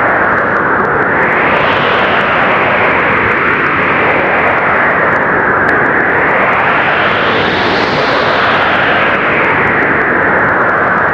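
Strong blizzard wind: a loud, steady rush that swells and eases in slow surges, rising and falling in pitch about every six seconds.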